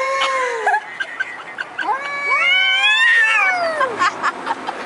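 Two large tomcats caterwauling at each other in an aggressive standoff: a long drawn-out yowl that tails off in the first second, then overlapping wails from about two seconds in that rise and fall in pitch. These are the threat calls of male cats squaring up to fight.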